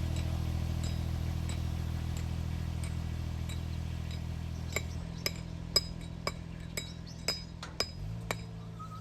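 Sharp metallic clinks at an even pace of about two a second, faint at first and much louder in the second half. Under them is a steady low engine hum, which weakens about halfway in and changes near the end.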